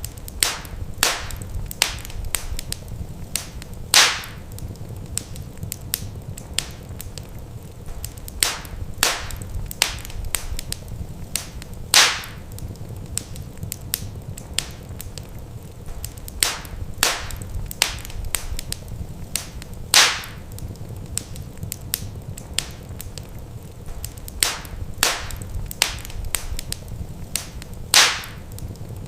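Wood fire crackling with many small sharp pops over a steady low rumble of flame. A louder pop comes about every eight seconds.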